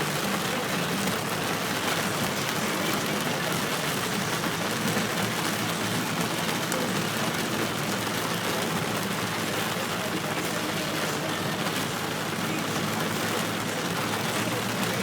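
Steady rushing noise of heavy rain and running floodwater, with a low vehicle engine hum underneath.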